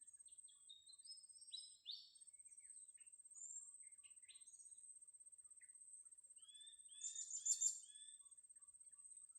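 Small birds chirping: scattered short, high, sharp notes, then a quick run of four louder calls about seven seconds in.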